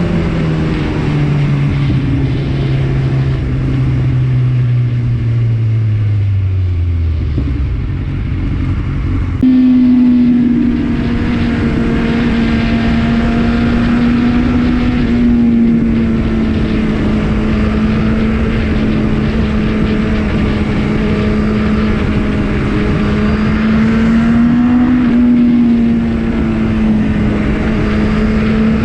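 Superbike engine running through an aftermarket Akrapovič exhaust: its note falls steadily in pitch for about eight seconds as the revs drop, then after a sudden change it holds a steady, higher note, rising a little near the end.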